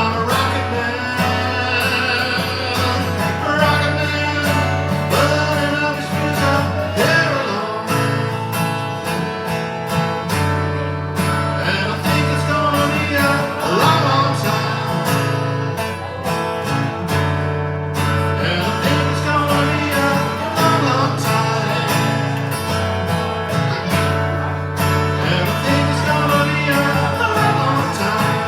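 Live acoustic guitar strummed steadily, with a voice singing over it.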